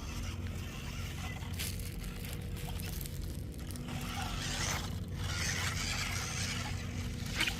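Radio-controlled toy truck driving off-road: tyres and chassis scraping and crunching over rough ground over a steady low motor hum, busier from about four seconds in, with a sharp knock near the end.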